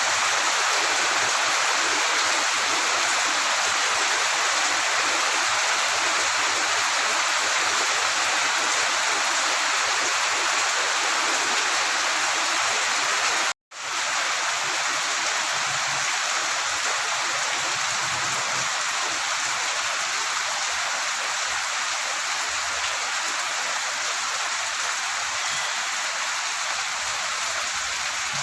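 Rain pouring down steadily, a loud even hiss of falling water. It cuts out for an instant about thirteen and a half seconds in, then carries on.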